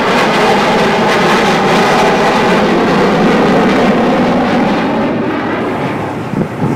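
Avro Vulcan B2 jet bomber's four jet engines roaring loudly in a flypast. The top end fades away and the sound trails off near the end as the aircraft moves away.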